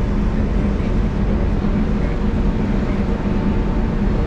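Steady low hum of a car ferry's machinery, its engines and ventilation, with a faint steady whine above it.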